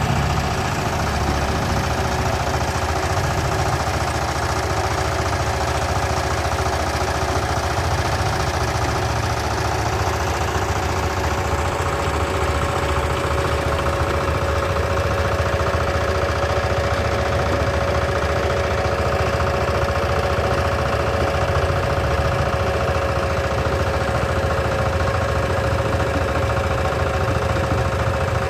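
Tractor engine running steadily under a constant load, with a steady tone held above the engine's rumble.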